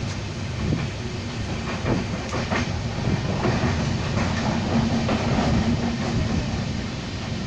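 Passenger train running on the rails: a steady rumble with the clickety-clack of wheels knocking over rail joints, and a low steady hum for a few seconds in the middle.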